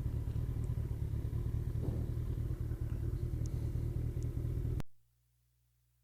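Motorcycle engine running with a steady low rumble, cutting off suddenly about five seconds in, followed by silence.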